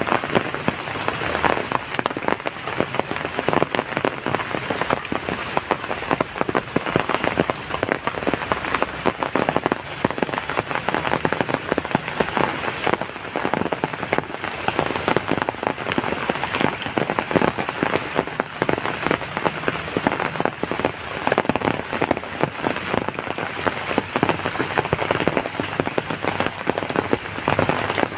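Heavy rain falling steadily: a dense, even wash of countless drops striking a surface close by.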